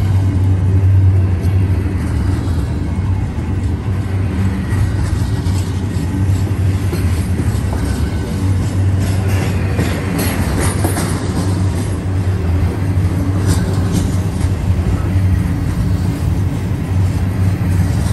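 Double-stack intermodal container well cars rolling past, their steel wheels making a steady low rumble on the rail. A stretch of sharper, high metallic squeal and clicks comes about ten seconds in.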